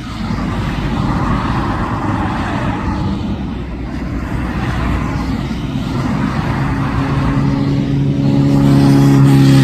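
Jet airliner passing low overhead near the runway end, its engine noise building and loudest near the end. A high whine falls in pitch as it goes by.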